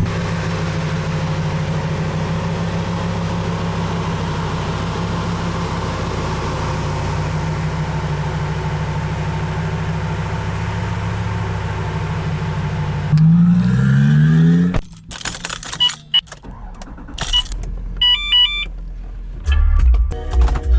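A car engine idling steadily, then revving up with a rising pitch about 13 seconds in. It cuts off abruptly, followed by short choppy sounds and a few electronic beeps.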